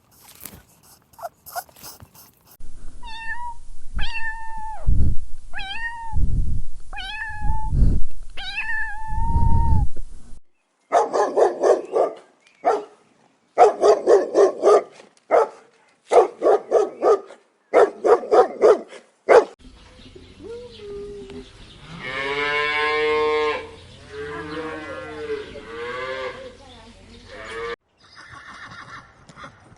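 A run of different animal calls cut one after another: first about five repeated high calls, then a quick series of short cries, then a long wavering cry, then a short quieter sound near the end.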